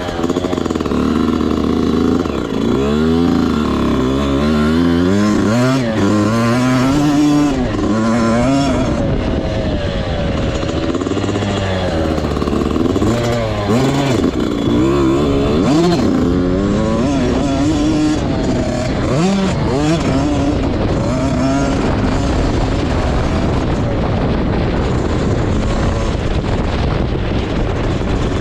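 Motocross dirt bike engine being ridden hard, its pitch climbing and dropping again and again as the throttle is opened and shut through the gears, with steady rushing noise over it.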